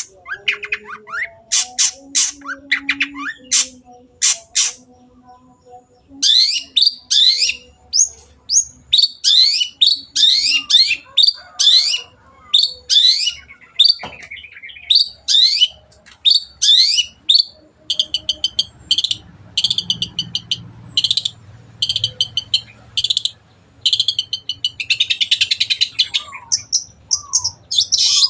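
Long-tailed shrike (cendet) singing a fast, varied song of short rising chirps, turning to harsh, buzzy chattering notes in the second half.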